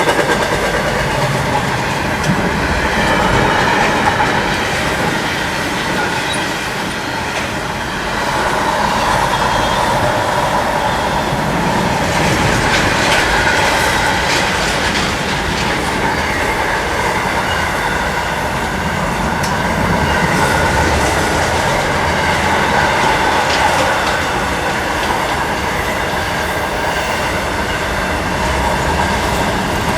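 A long freight train rolling past at steady speed: wheels clicking over rail joints, with a faint squeal and ringing from the wheels on the rails.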